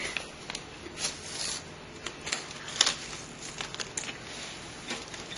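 Scattered light clicks and brief rustling as computer parts and their packaging are handled by hand.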